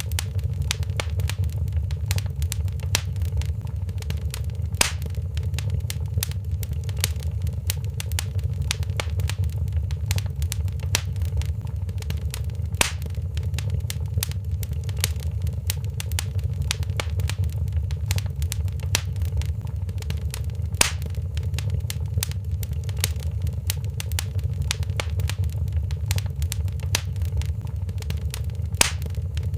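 Wood fire crackling in a fireplace: a dense run of small snaps and crackles, with four louder pops spread through, over a steady low rumble of the flames.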